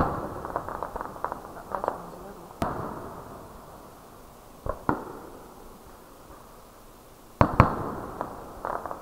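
Fireworks going off: a sharp bang at the start followed by crackling, single bangs about two and a half and five seconds in, and two bangs in quick succession about seven and a half seconds in, each with a rolling echo.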